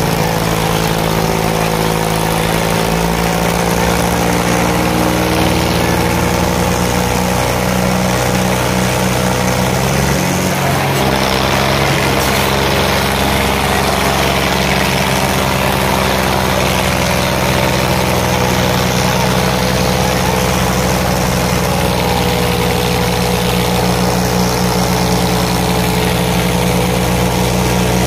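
Diesel tractor engines running loud and steady under load, the pitch shifting briefly about ten seconds in.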